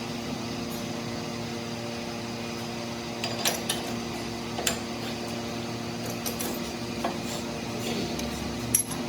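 Steady machine hum in a workshop, with a few sharp metallic clinks of tools and parts scattered through it.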